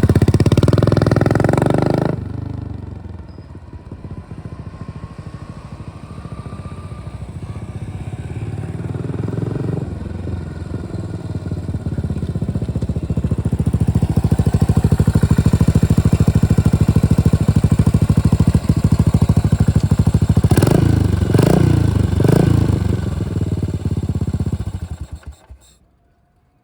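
Customised Yamaha SR400's air-cooled single-cylinder four-stroke engine running. It grows louder over several seconds, is revved in three quick throttle blips near the end, then stops.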